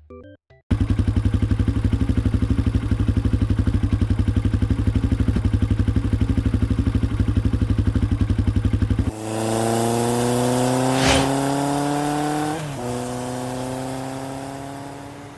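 Kawasaki Vulcan 1500 Classic Tourer's V-twin engine idling with an even, fast pulsing beat. About nine seconds in, the bike pulls away with the engine note rising, dipping once, rising again and fading.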